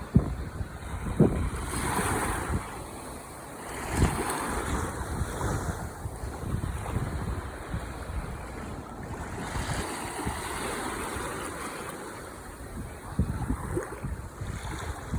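Ocean waves breaking and washing on the shore, the surf swelling and falling several times, with wind buffeting the microphone in sharp low thumps.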